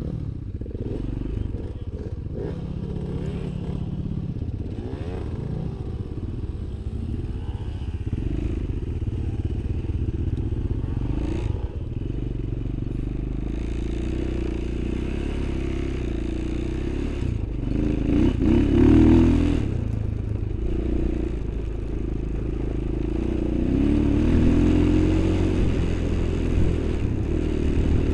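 Off-road vehicle engine running steadily under load, revving up harder twice, about two-thirds of the way through and again near the end, as it drives a snowy track up a slope.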